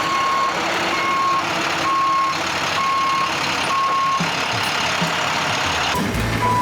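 Backup alarm on a piece of heavy construction equipment sounding a steady, evenly spaced beep about once a second over the machine's running noise. It beeps five times, falls silent for about two seconds, then starts beeping again near the end.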